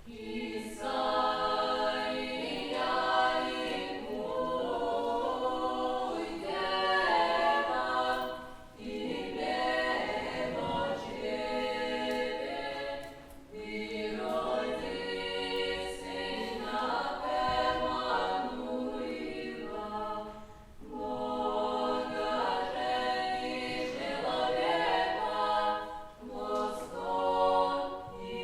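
Unaccompanied vocal ensemble singing Old Russian music in several voices, in long phrases with three short breaks for breath.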